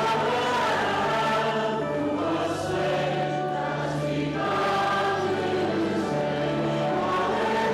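A group of voices singing a hymn together, over an accompaniment of held low bass notes that change every second or two.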